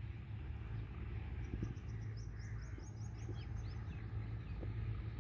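A bird's quick run of about a dozen short high chirps, each sliding down in pitch, in the middle, over a low steady rumble.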